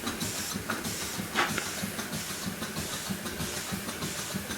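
Small GVG two-cylinder steam engine running on about 50 pounds of boiler pressure, with a fast, even beat and a steady hiss of steam.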